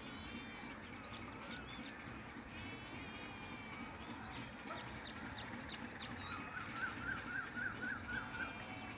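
Birds chirping and calling, with a quick run of about eight repeated up-and-down notes in the last third.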